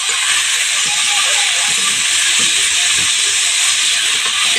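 Washed spinach and potato pieces sizzling loudly in hot oil in a steel kadhai, a steady hiss of wet vegetables just added to the oil, as a spatula stirs them.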